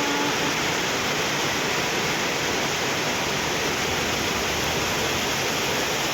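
Heavy rain pouring down steadily during a storm, an even rushing hiss.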